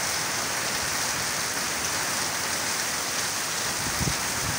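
Heavy downpour of rain falling steadily, with one brief low thump about four seconds in.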